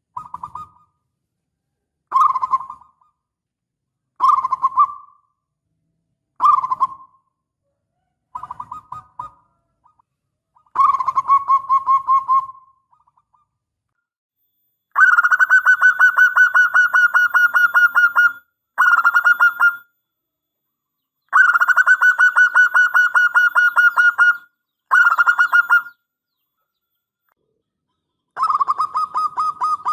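Zebra dove (local perkutut) singing in full voice. Five short coos come about two seconds apart, then from about eleven seconds in longer rapid rattling coo phrases, each lasting one to three seconds, with short gaps between.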